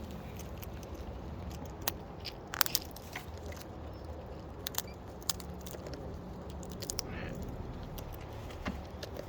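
Cockatoos feeding close to the microphone: beaks crunching and chewing food, with scattered sharp cracks and clicks.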